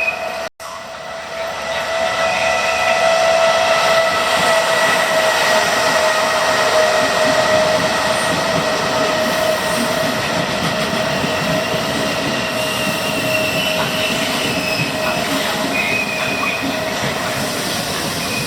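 Electric train running through the station, a loud steady rumble of wheels on rail with several high whining tones held over it that sink slowly in pitch. The sound cuts out for an instant about half a second in, then builds over the next second or two.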